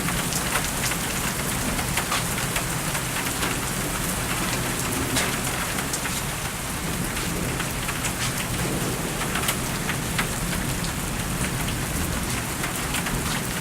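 Heavy rain falling steadily during a thunderstorm, with many individual drop hits, and a low rumble of thunder that is strongest near the start.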